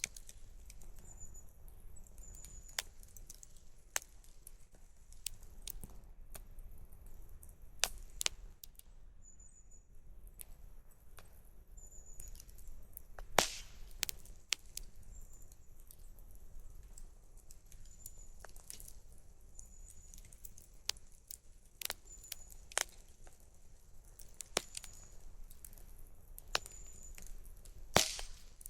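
Wood campfire crackling, with irregular snaps and pops over a faint low rumble; the two loudest pops come about halfway through and near the end.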